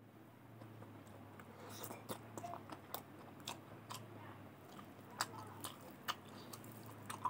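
Close-miked chewing and mouth sounds of someone eating rice with fried beans and potato by hand: many small, irregular wet clicks and smacks. A steady low hum runs underneath.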